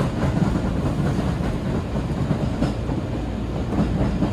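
Steady running noise of a Seibu 4000 series electric train heard from inside the passenger car: a low rumble from the wheels and running gear, with faint clicks of the wheels passing over rail joints.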